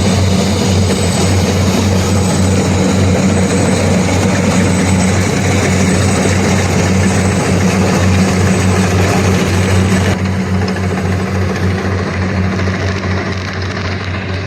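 Kubota rice combine harvester running steadily, its diesel engine giving a loud, even drone with a low hum, a little quieter and duller from about ten seconds in.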